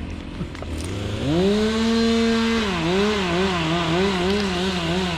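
Stihl chainsaw idling, then revved up about a second in and held at full speed. Its pitch then rises and falls about three times a second as it cuts through an oak limb under load.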